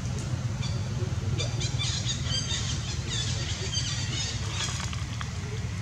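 Birds chirping in quick clusters of short, high notes, over a steady low rumble.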